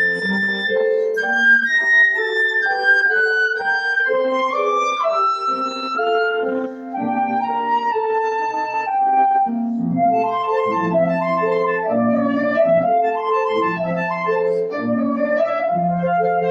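Flute playing a slow, legato melody over piano accompaniment.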